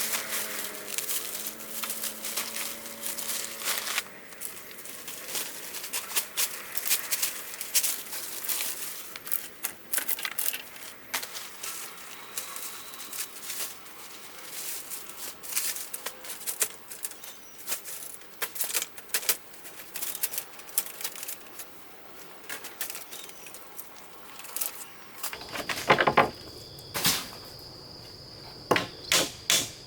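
Irregular clatter of light clicks and knocks, as of things being handled. Near the end a steady high-pitched tone comes in, with knocks about once a second.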